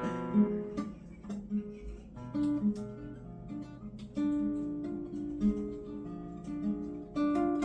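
Acoustic guitar being played: a strummed chord, then a line of single picked notes with some held longer, and another chord shortly before the end.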